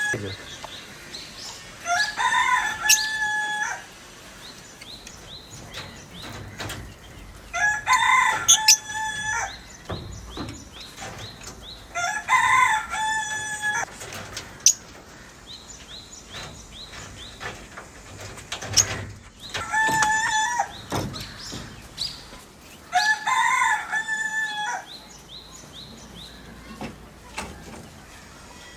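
Rooster crowing about five times, each crow lasting a second or two, with a few short knocks in between.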